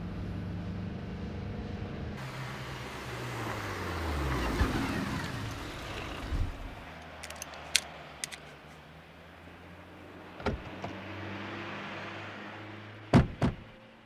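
A car passes by, its engine note falling as it goes, followed by a few sharp clicks and knocks, the loudest a pair near the end.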